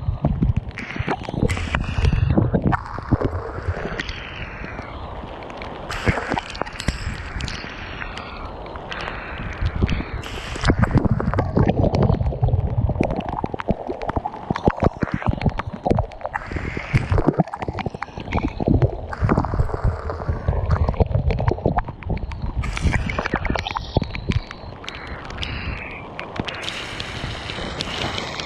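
Strong gusty wind buffeting the microphone, a heavy rumble that swells and fades every few seconds, with many small ticks through it.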